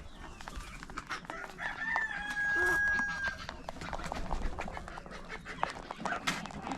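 A rooster crowing once, a long held call starting about two seconds in, among scattered short clicks and knocks.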